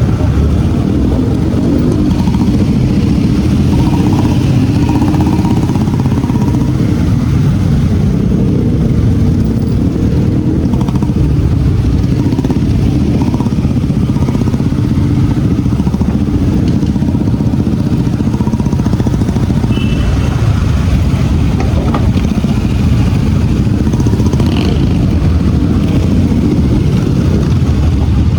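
Motorcycle engine running steadily, a constant low rumble with no pauses.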